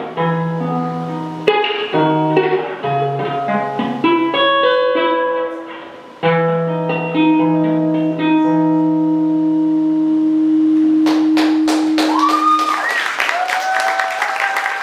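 Acoustic guitar playing the closing phrases of a song and letting a final chord ring out. About eleven seconds in, the audience starts clapping, with cheers and whoops over the applause.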